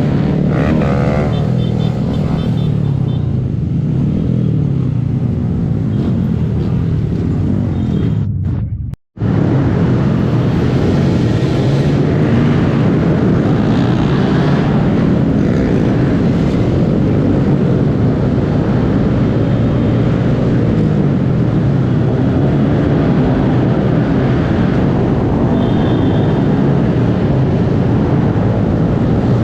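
Honda 125 cc single-cylinder motorcycle engine running on the move, its pitch rising and falling with throttle and gear changes. The sound cuts out for a moment about nine seconds in.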